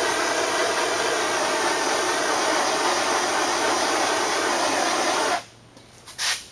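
Handheld propane torch burning with a steady hiss. The hiss cuts off suddenly about five seconds in.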